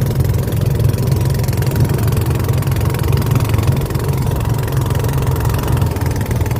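Boat engine running steadily, a loud, low, even drone.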